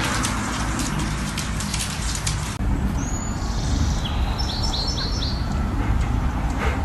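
Steady hiss with fine crackling, cut off abruptly; then a low rumble with a quick run of four or five short, high bird chirps.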